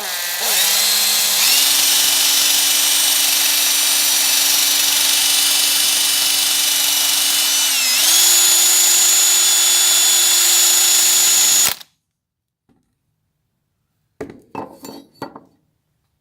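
An electric power tool motor spins up and runs steadily with a high whine, steps up slightly in pitch about eight seconds in, then cuts off abruptly. A few short clatters follow near the end.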